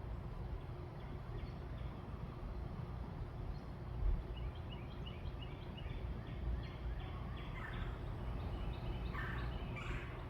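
Birds calling over a steady low background rumble: a run of quick, high chirps begins about four seconds in, then louder, harsher calls come near the end.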